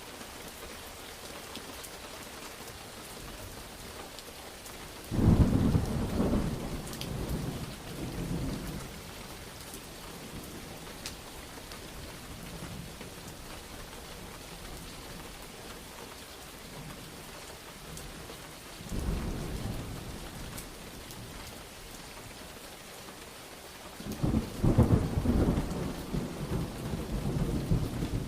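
Steady rain with rolling thunder. A sudden loud clap about five seconds in rumbles on for a few seconds, a softer rumble comes midway, and another loud roll of thunder starts near the end.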